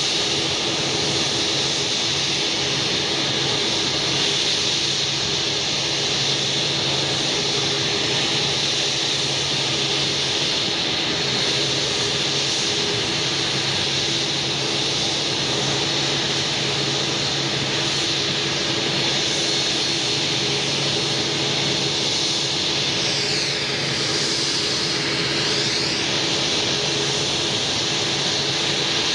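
Jet engines of an Airbus A320-232, IAE V2500-series turbofans, running at a steady level: a constant low hum and higher whine over a broad rushing noise. About three-quarters of the way through there is a brief sweeping shift in the hiss.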